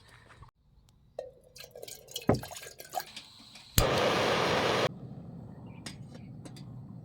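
Water pouring and splashing for about a second, loud and abrupt, then running on more softly, with scattered knocks and clinks of things being handled before it.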